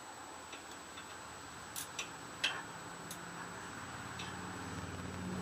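Scattered sharp metal clicks from a ratchet and socket loosening the cylinder head bolts on a 5 hp Tecumseh small engine. A low hum builds in the second half.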